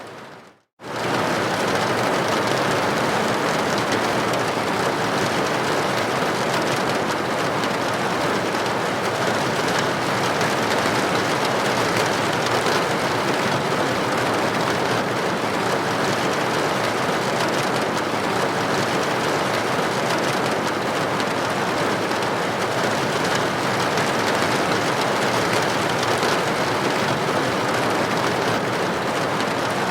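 Rain striking a building window, a steady even hiss. About a second in it fades out to silence for a moment and comes straight back.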